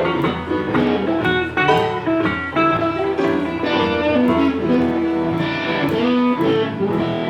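Live blues band playing an instrumental passage led by electric guitar, with a steady beat.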